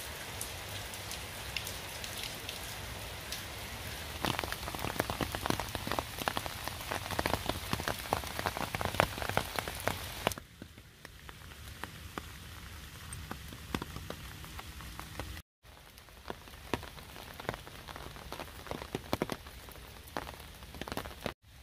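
Rain falling, with a dense run of drop hits from about four to ten seconds in. About ten seconds in it turns abruptly quieter, with two brief dropouts later on.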